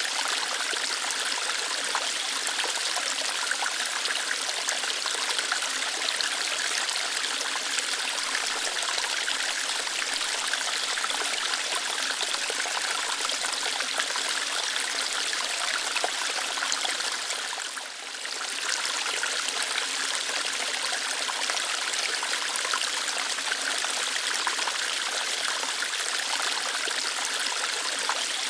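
Small waterfall, water flowing lightly through rocks in a steady stream, with one brief dip in level about two-thirds of the way through.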